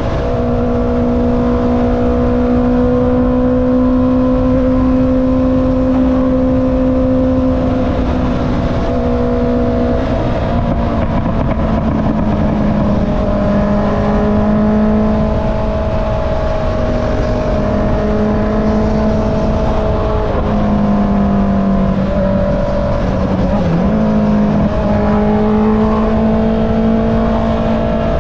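Honda CB650R's inline-four engine running through an Akrapovic exhaust while riding at a steady pace. The engine note holds steady, drops in pitch about a third of the way in, and dips briefly twice near the end.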